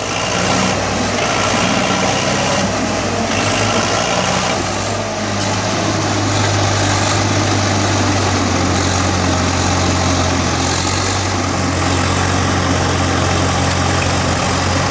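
Diesel tractor engine running steadily with a constant low hum.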